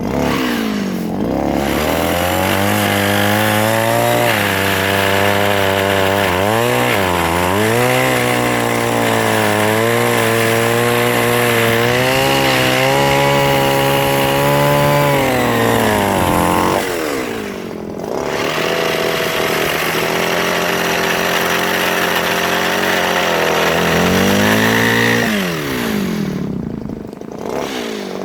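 Mini chainsaw running at high speed while cutting soft wood, its pitch sagging and recovering under load. It eases off twice, about two-thirds of the way in and again near the end, and is revved back up each time.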